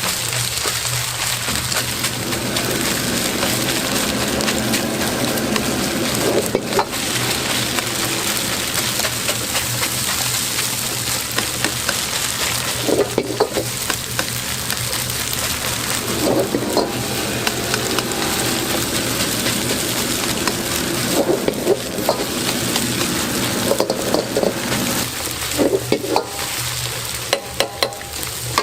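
Egg fried rice sizzling steadily in a hot pan as it is stir-fried, with a spatula scraping against the pan every few seconds.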